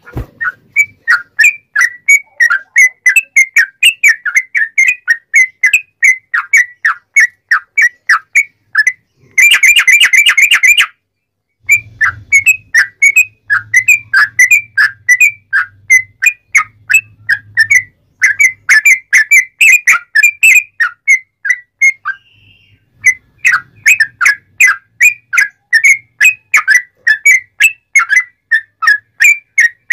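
Yellow-vented bulbul (trucuk) singing a loud, fast string of short whistled notes, about three a second. About nine seconds in it breaks into a rapid trill, and the song pauses briefly twice.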